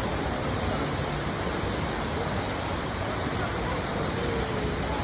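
Falling water of a 15-metre indoor waterfall rushing steadily, with faint voices mixed in.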